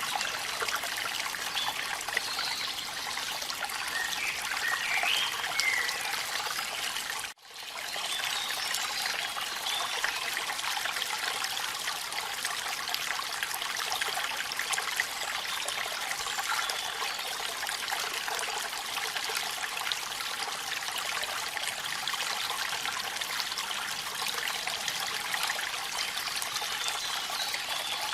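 Steady rushing and trickling of a waterfall in rain, mostly a high hiss of falling and splashing water. The sound cuts out for a split second about seven seconds in, then comes straight back.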